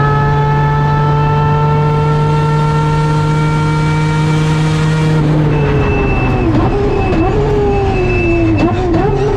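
Mazda RX7's peripheral-port 20B three-rotor rotary engine, heard from the cockpit at high revs under full throttle, its pitch climbing slowly for about five seconds. Then the revs fall away with several short dips and a few sharp cracks near the end.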